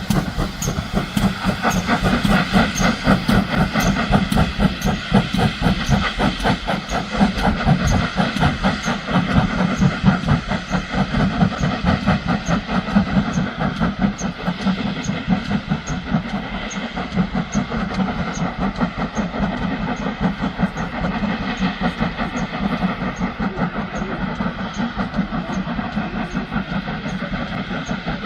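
Heritage railway train running, its locomotive giving a fast, even beat with a steady hiss, and a light tick about twice a second; it eases off slightly toward the end.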